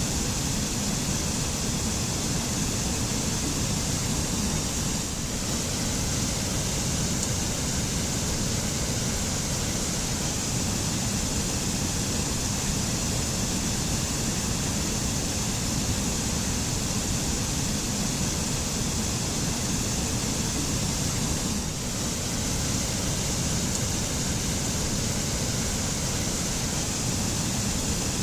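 Waterfall: water falling and rushing in a steady, unbroken stream of noise, heavy in the low end with a bright hiss on top.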